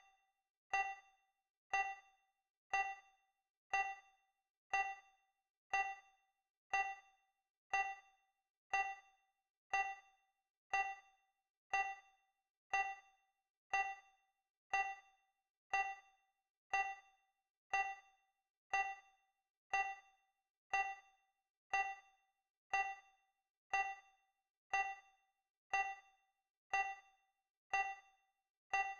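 Countdown timer tick sound effect: a short, bright metallic ding once every second, each dying away quickly, in an even steady rhythm.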